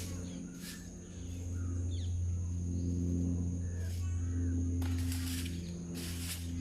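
A few short bird chirps over a steady low hum that carries a few steady higher tones, broken by brief hissing bursts of noise, most of them toward the end.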